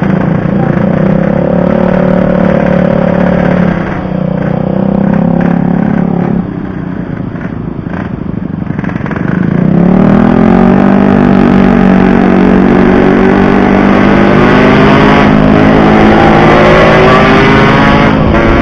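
Yamaha RX-King 135 cc single-cylinder two-stroke motorcycle engine under way, running at steady revs, easing off about six seconds in, then revving up sharply about nine seconds in and holding the higher revs.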